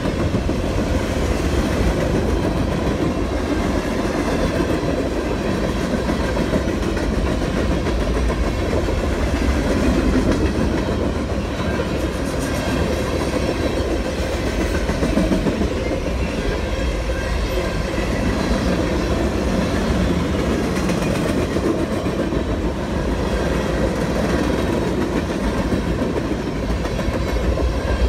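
Cars of a CSX mixed freight train rolling past: a steady rumble of steel wheels on the rails.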